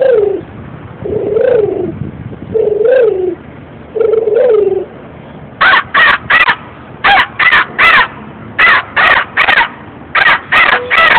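A man imitating bird calls: four drawn-out cooing calls that rise and fall, then loud caws in four quick groups of three.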